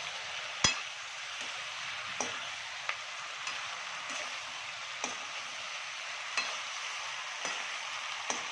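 Fried chicken pieces sizzling in a pan while they are stir-fried. A spatula knocks and scrapes against the pan about once a second, with the sharpest knock near the start.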